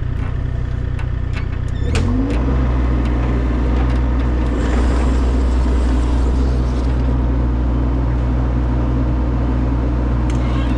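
Heavy equipment engine running, revving up about two seconds in and holding at higher revs, with a few clicks and knocks.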